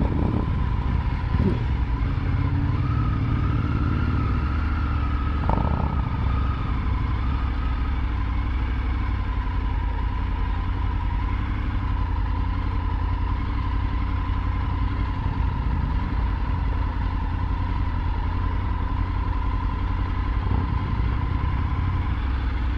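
Triumph Tiger 900 GT's three-cylinder engine running steadily at low road speed, heard from on the bike.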